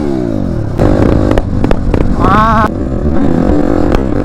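Motorcycle engine running amid road noise, with rattles and clicks from about a second in and a brief wavering tone about two seconds in.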